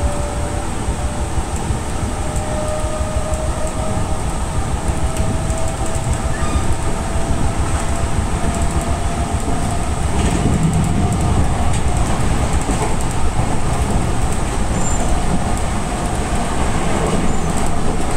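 Enshu Railway 2000-series electric train running along the track, heard from its front cab: a steady rumble of wheels on rail with a faint whine slowly rising in pitch.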